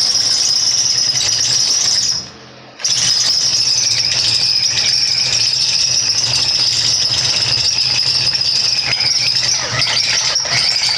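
Electric drill with a large step drill bit cutting through a steel receiver hitch mount, giving a steady high-pitched squeal over the motor's hum. The drill eases off for about half a second about two seconds in, then cuts on.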